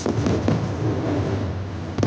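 Fireworks bursting overhead: a sharp bang right at the start, then further bursts about a quarter and half a second in, over a steady low rumble.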